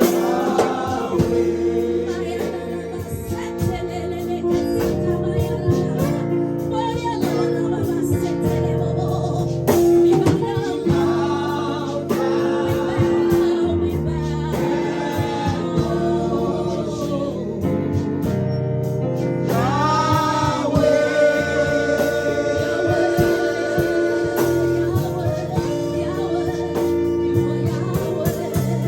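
Gospel worship music: voices singing slowly over long held chords.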